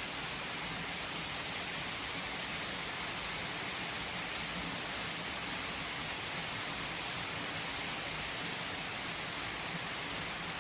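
Heavy rain falling steadily on tree foliage, an even hiss with faint scattered drop ticks.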